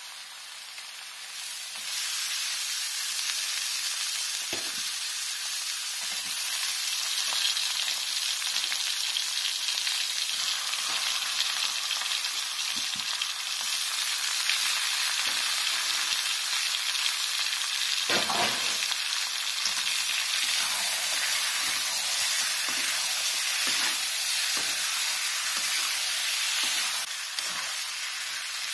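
Raw chicken pieces frying in hot oil with browned onions and ginger-garlic paste in a wok-style pan: a steady sizzle that grows louder about two seconds in, with a few knocks of a metal slotted spatula stirring against the pan.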